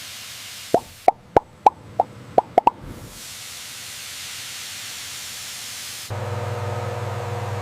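A quick run of about eight short plopping pops, each dropping in pitch. A steady hiss follows, and about six seconds in a low steady machine hum starts.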